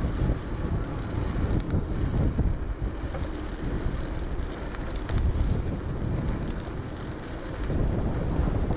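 Strong wind buffeting a GoPro's microphone on a moving e-bike: a dense low rumble that swells and dips in gusts.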